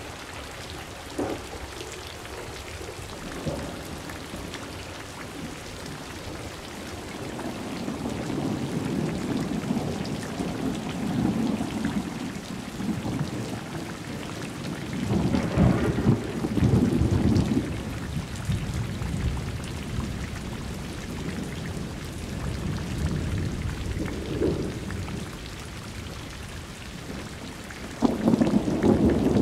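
Steady rain falling, with rolling thunder: a long low rumble builds and fades, then about halfway through comes the loudest thunderclap, and another loud peal begins just before the end.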